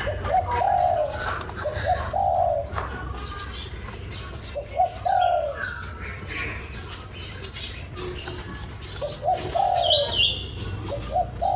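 Spotted dove cooing: short phrases of low coo notes, each note dipping slightly in pitch, repeated every few seconds. Higher chirps from small birds come in between, over a steady low hum.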